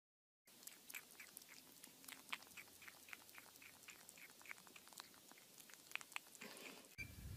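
Kitten chewing at the rim of an orange plastic lid: faint, quick clicks, about three a second.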